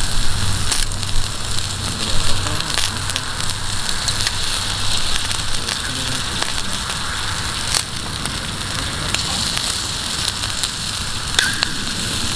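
Bonfire crackling over a steady hiss, with scattered sharp pops, while yakitori grills over it.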